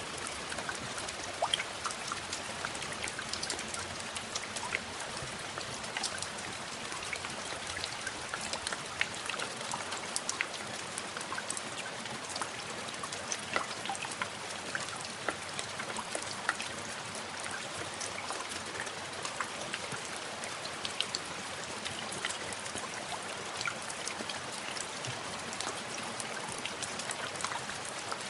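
Steady rainfall, a constant hiss of rain with many scattered individual drops pattering close by.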